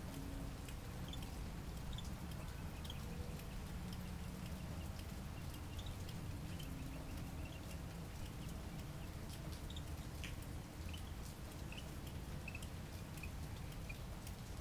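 Rain tapering off: scattered drips and light patter, irregular and several a second, over a low steady rumble.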